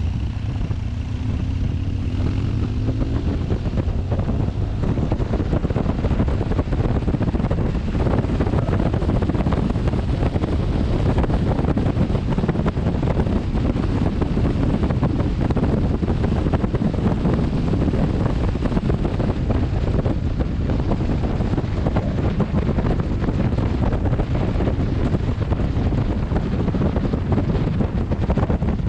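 Wind blasting over a helmet-mounted camera's microphone while riding a BMW R1200GS motorcycle, loud and steady, with the bike's flat-twin engine under it. The engine note rises in the first few seconds as the bike speeds up.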